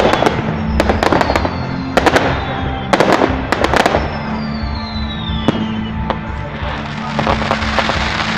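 Fireworks display: a rapid run of shell bursts through the first four seconds, with several long falling whistles, then fewer bursts. Music with steady held tones plays underneath.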